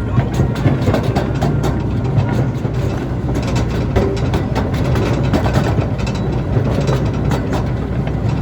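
Riding aboard a miniature park train in motion: a steady low rumble of the train with frequent irregular clicks of the wheels over the rail joints.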